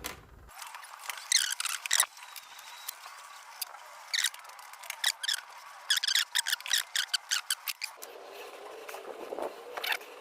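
Hand tools working on the turbo-to-downpipe nuts and washers: clusters of short metallic clicks and scrapes in quick runs, several times over.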